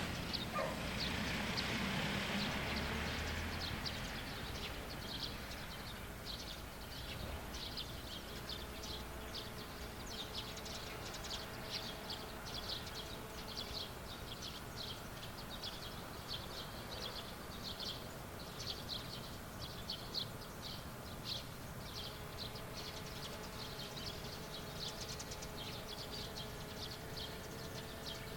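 Small birds chirping in quick, short high notes, repeated over and over, in the outdoor ambience of a farm field. A broad rush of noise at the start dies away over the first few seconds.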